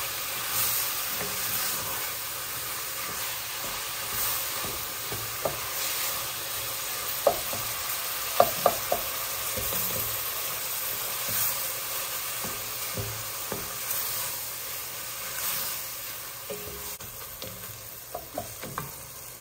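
Ground sausage with chopped green peppers and onions sizzling in an enameled cast-iron pot as a wooden spatula stirs and scrapes it, with scattered sharp clicks of the spatula knocking the pot. The sizzle grows quieter near the end.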